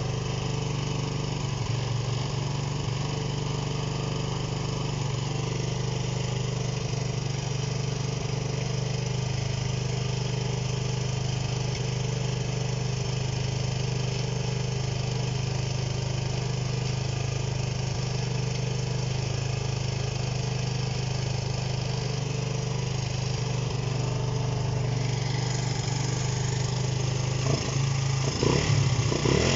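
Honda CB125 RS single-cylinder four-stroke engine idling steadily without the choke, fed from a bottle of petrol mix. It ticks over smoothly but stalls at any throttle, a sign of a carburettor fault. Near the end the sound grows louder and more uneven.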